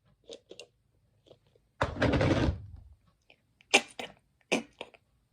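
A person's mouth-made imitation of a spotlight switching on: one short, loud breathy hiss about two seconds in, followed by four sharp clicks.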